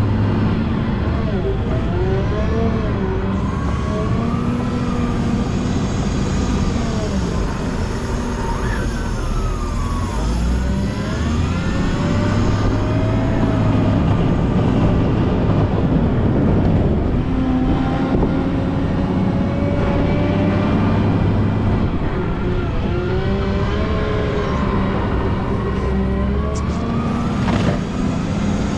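Volvo L90H wheel loader's diesel engine running steadily under load while plowing snow, with a whine that rises and falls in pitch again and again as the revs change.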